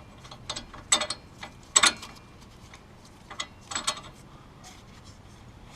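Sharp metallic clicks and clanks from hand tools and parts on a wheel hub assembly, in about five short bursts, the loudest about two seconds in.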